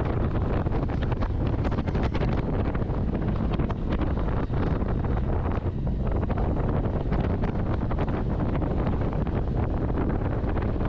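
Heavy, steady wind buffeting the microphone, as on a motorcycle riding at speed.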